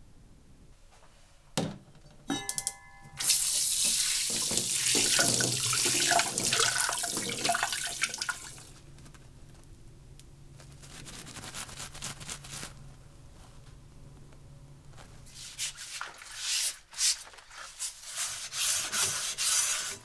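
Kitchen sink tap: a click and a short squeak, then water running hard into the sink for about five seconds. It drops to a lower flow, and near the end comes uneven splashing as something is rinsed under the tap.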